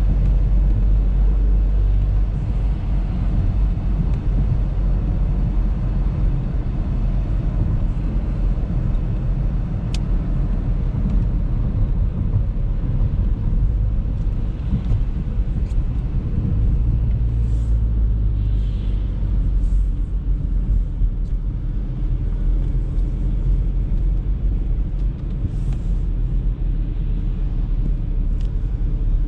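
A car driving steadily, a low continuous rumble of engine and tyres on the road, with a few faint clicks now and then.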